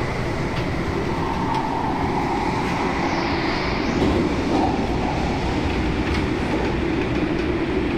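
Hong Kong MTR Tung Chung line A-train (Adtranz-CAF electric multiple unit) running at speed, heard from inside the car: a steady rumble of wheels on rail with a few sharp clicks, and a brief high whine about three seconds in.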